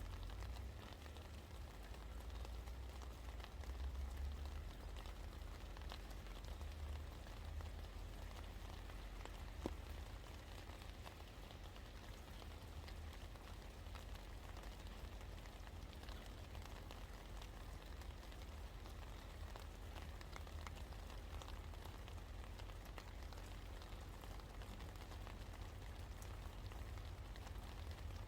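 Steady rain falling, with many small drop impacts ticking over an even hiss and a steady low rumble underneath. One sharper drop tick stands out about ten seconds in.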